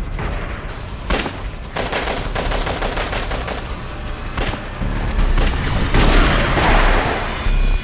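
Gunfire from an action-film soundtrack: rapid bursts and shots in quick succession over a deep low rumble.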